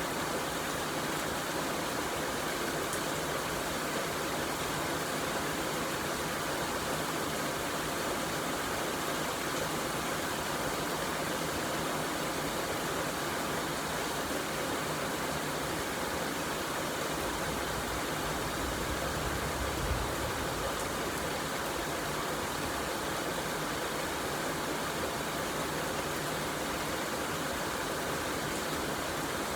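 Steady rain falling, an even hiss. A brief low rumble comes about two-thirds of the way through.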